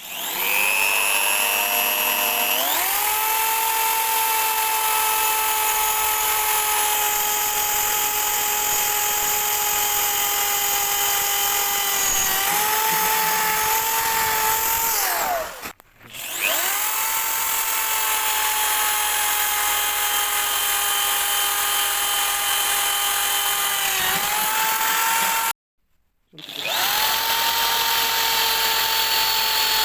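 Electric power tool motor starting and spinning up to a steady whine. It sags slightly in pitch now and then, stops about halfway, restarts, then cuts off abruptly and starts again a second later.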